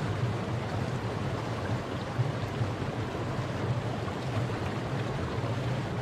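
Forest river flowing over rocks: a steady rushing of water with a low rumble.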